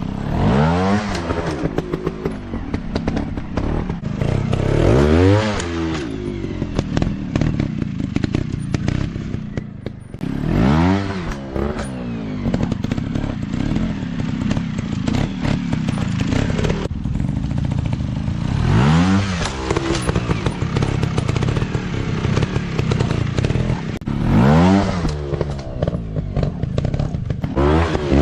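Off-road motorcycle engine revving in repeated sharp bursts, about six times, each rising and falling in pitch, with lower rough running in between.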